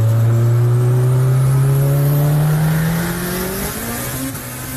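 Turbocharged Honda D16Y8 four-cylinder with a Pulsar GT3071 turbo and a full 3-inch exhaust, pulling under acceleration with its pitch rising steadily. Near the end the pitch drops and the engine goes quieter as the pull ends.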